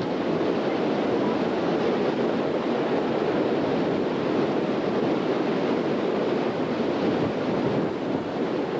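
Strong storm wind rushing over a camcorder's microphone, a steady dense rush with no breaks.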